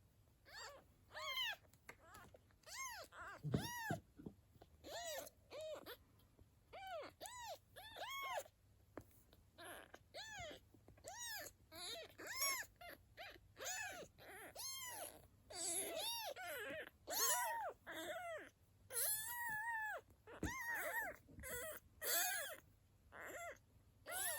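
Young kitten mewing over and over in short, high cries that rise and fall in pitch, more than one a second, with a few longer, steadier cries about three-quarters of the way through.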